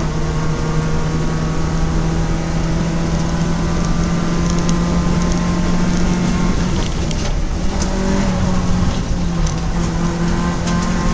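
Citroën Saxo race car engine, heard from inside the stripped cabin, running hard at a steady pitch over loud road noise. The pitch steps down right at the start, holds, then wavers briefly about seven to eight seconds in.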